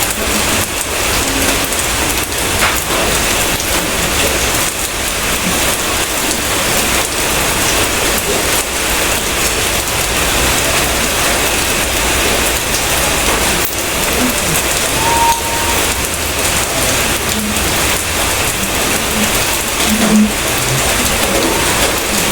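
Steady rain falling on a surface, an even, unbroken patter.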